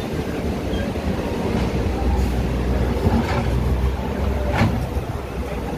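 Passenger train running, heard from aboard: a steady low rumble with a few sharp knocks of the wheels over rail joints.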